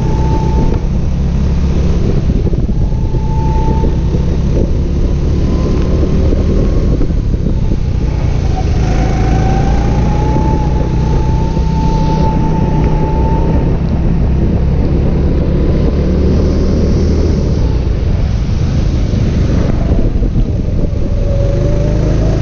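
Go-kart engine running hard, heard from on board: its whine climbs as the kart accelerates and drops away as it slows for corners, several times over, with a steady rushing noise underneath.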